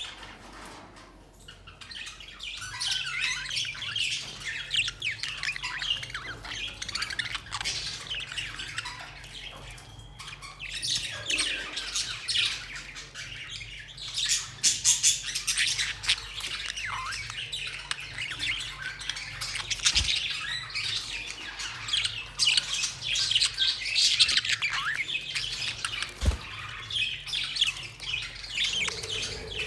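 A flock of budgerigars calling over one another in dense, continuous chatter of short chirps and squawks.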